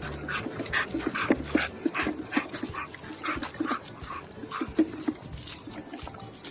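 A dog breathing in quick rhythmic breaths, about two a second.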